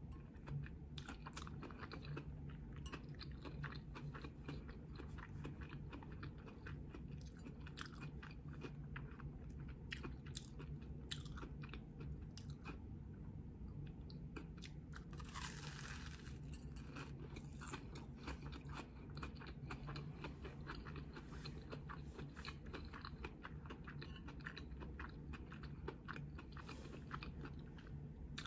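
Close-up chewing of a crunchy, panko-coated Korean corn dog: a steady run of small irregular crackles as the fried crust is chewed, with a louder burst of noise lasting about a second halfway through.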